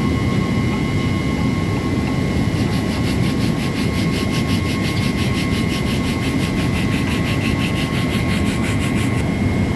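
Steady machine rumble with a constant thin whine. From a few seconds in until near the end, a rhythmic rasping scrape repeats about six times a second, like hand-rubbing a part with sandpaper.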